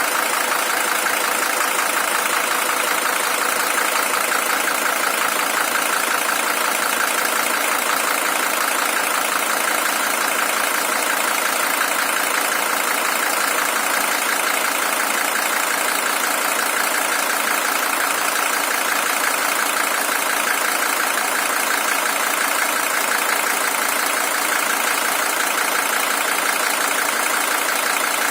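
Mercedes-Benz OM617 five-cylinder diesel engine idling steadily, with an even rapid diesel knock; the engine is original, with 620,000 km on it.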